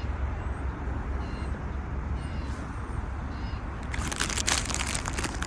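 Outdoor ambience: a steady low rumble with faint short bird chirps about once a second, then a burst of crackling rustle about four seconds in, as of a snack bag being handled.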